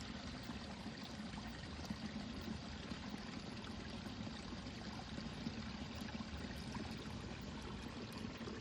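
A stream or creek flowing steadily.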